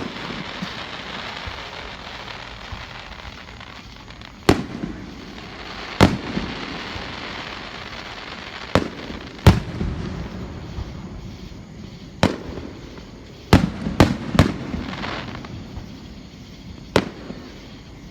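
Aerial fireworks bursting: about ten sharp booms at irregular intervals, three in quick succession about two-thirds of the way through, with crackling hiss trailing some of the bursts.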